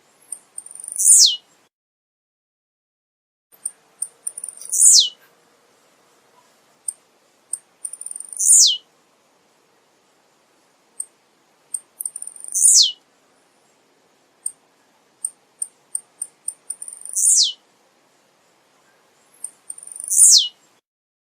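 Male blue-black grassquit (tiziu) singing its short song, a single very high note that sweeps steeply down in pitch, six times at intervals of three to four seconds, with brief high chips between the songs.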